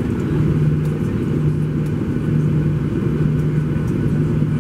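Cabin noise inside a Boeing 737-800: a steady drone from its CFM56 engines and airflow. A low hum swells and fades about once a second.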